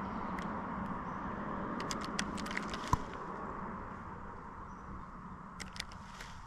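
Steady rush of flowing creek water, with a few scattered sharp clicks and taps, the loudest about three seconds in.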